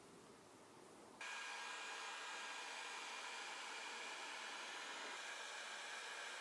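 A small electric blower running with a steady hiss, switched on suddenly about a second in.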